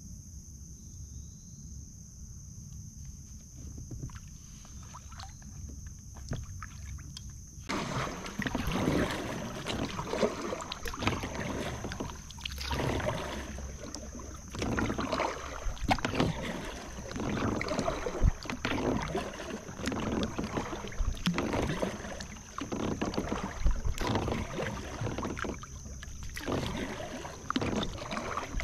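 Kayak paddle strokes: the blades dipping and splashing in calm water, with dripping, irregular and continuous from about eight seconds in after a quieter start.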